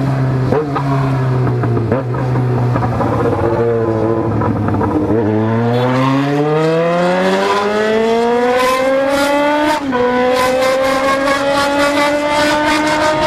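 Yamaha XJ6 motorcycle's inline-four engine under way, held at a steady pitch for about five seconds, then revving up smoothly as the bike accelerates. About ten seconds in the pitch drops sharply at a gear change, then the revs climb again.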